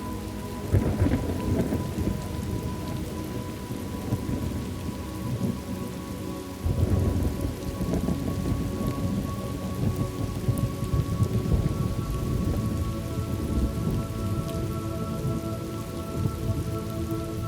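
Thunderstorm ambience: steady rain with rolling thunder that swells about a second in and again near seven seconds.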